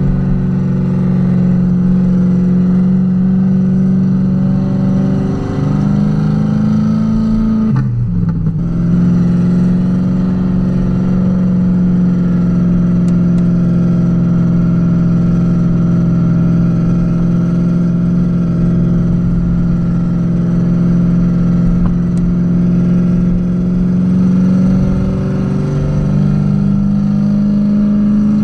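Renault Kwid 0.8's three-cylinder engine running under way at fairly steady revs. The revs step up about five seconds in, dip and recover briefly about eight seconds in, then hold steady and rise again near the end.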